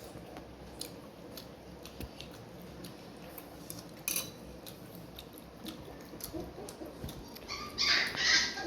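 Close-up eating sounds from a fish and rice meal: scattered small clicks and smacks, with a stronger click about four seconds in and a louder, noisy burst near the end.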